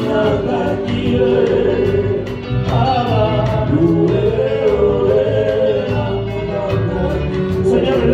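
Gospel worship music: several voices singing together over a band, with a steady beat ticking through it.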